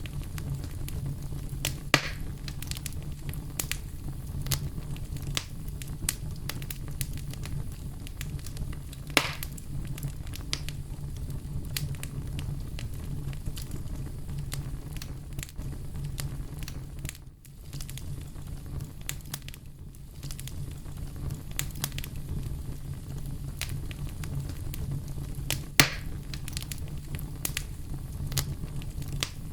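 Campfire crackling steadily over a low, even rumble, with frequent small snaps and three louder pops.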